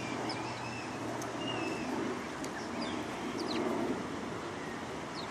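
Small birds chirping with many short, high calls scattered throughout, over a low background hum.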